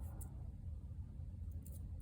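Quiet desk sound with a steady low hum, broken by two faint light ticks of paper craft pieces being handled: one just after the start and one near the end.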